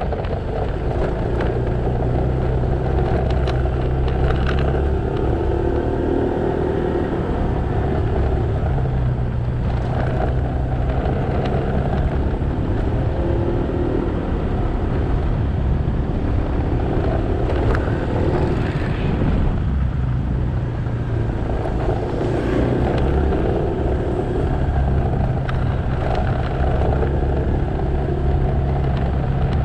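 Motorcycle engine running under way, heard from the rider's seat together with wind and road noise. The engine note drops away and picks up again several times as the throttle changes.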